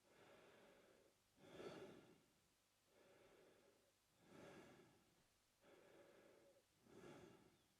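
Faint, slow mouth breathing by an adult man: about three in-and-out cycles, each a shorter, stronger airy breath followed by a longer, softer one.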